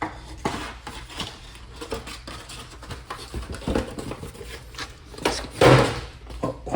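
Handling of toy packaging: small plastic pieces clicking and tapping as they are taken out of a cardboard box, with rustling throughout and a louder rustle about five and a half seconds in.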